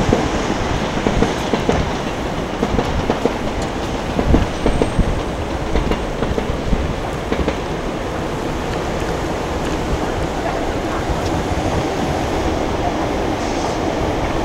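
A train running on the rails, its wheels clacking unevenly over the track joints, then settling into a steadier rumble in the second half.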